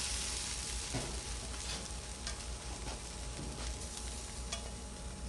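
Chicken wings sizzling on a grill, a steady hiss with a few faint clicks as the wings are lifted off.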